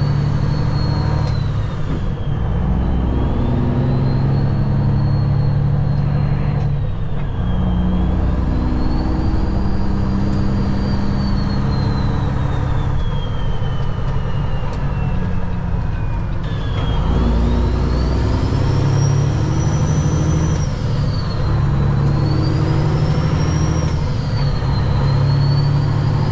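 Semi truck's diesel engine running and pulling, its pitch changing in steps a few times, with a thin high whistle gliding slowly up and down over it.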